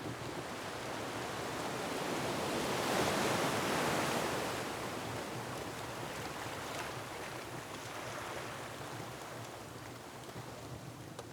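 Ocean waves surging against a rocky shore: one wave swells to a peak about three seconds in and then slowly washes back, over a steady surf wash, with a few faint crackles from a wood fire.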